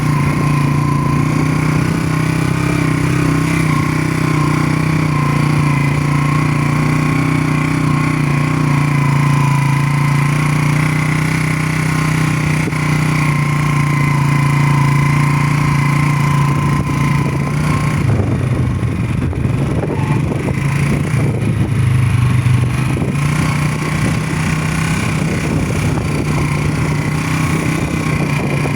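Motorcycle engine running at a steady pace while riding. From about eighteen seconds in the sound turns rougher and more uneven for several seconds, then evens out again.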